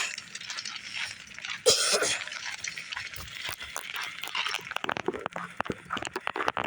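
Rattling, clicks and knocks from riding a bicycle while holding the phone that records, with a sharp breathy burst about two seconds in.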